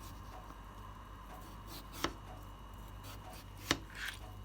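Knife slicing thin cuts down into a raw potato for hasselback potatoes, faint scraping with a few sharp taps as the blade comes down, the clearest about two seconds in and near the end.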